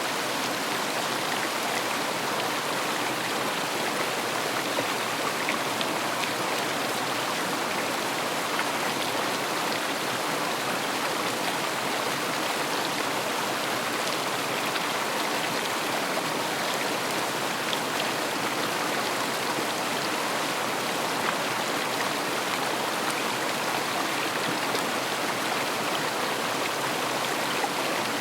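River water flowing steadily over stones, an even rushing with small splashes and droplet ticks.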